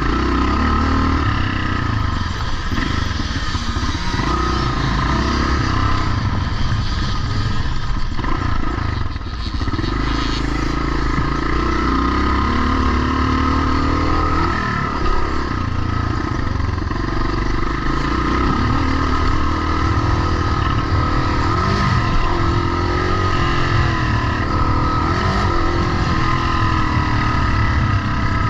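Pre-1990 motocross motorcycle engines running without a break, revving up and falling back again and again as they are ridden around the track.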